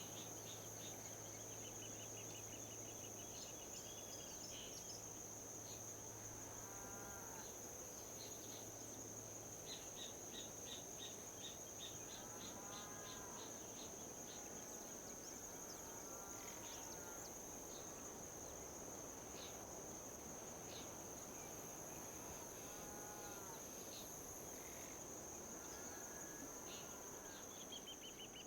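Outdoor nature ambience: crickets trilling steadily at a high pitch over a soft wind hiss, with short chirping pulse trains and brief calls every few seconds. A low hum sits underneath for the first ten seconds.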